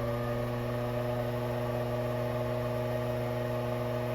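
Eccentric drive of a home-built compressed-air engine spinning on a balance test at just over 970 RPM, a steady whirring hum. It runs smoothly here, past the slight vibration it shows at 950 to 970 RPM: the eccentrics are in good balance.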